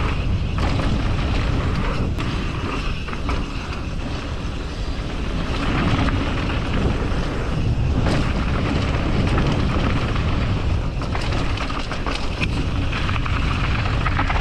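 Strong wind buffeting the microphone, a steady heavy rumble with a few scattered clicks.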